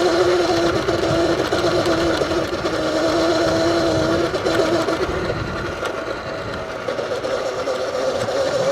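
Surron Light Bee electric dirt bike's motor and drivetrain whining steadily while riding, over wind and tyre noise. The whine fades out about four seconds in and comes back near the end.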